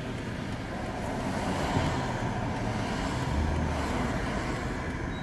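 Steady road and engine noise of a car heard inside its cabin while driving in traffic, swelling slightly in the middle.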